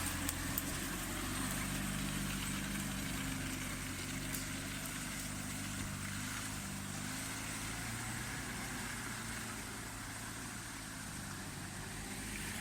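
Off-road vehicle engine running steadily at low revs, close to idle, with slight drifts in pitch.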